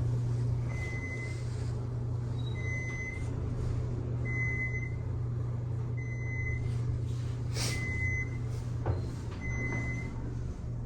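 Elevator riding up, with a steady low hum and a short high beep about every one and a half to two seconds, typical of an elevator signalling each floor it passes.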